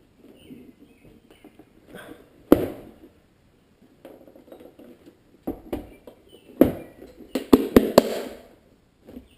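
Hard plastic headlight parts being handled: scattered clicks, knocks and rustling, with one sharp knock a few seconds in and a burst of several knocks near the end.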